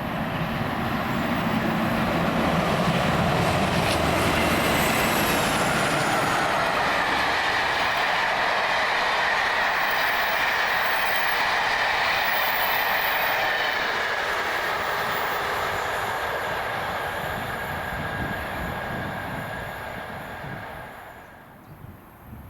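A train passing on the rails, with wheel and rail noise and a high, steady squeal from the wheels. It dies away about 21 seconds in.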